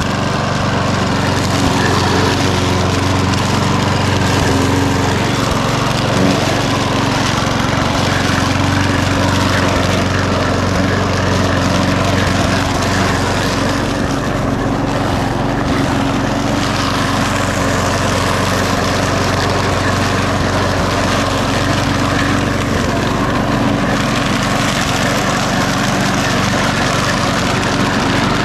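Walk-behind lawnmower's small petrol engine running steadily, the mower that has just been got going after a spark-plug change and priming.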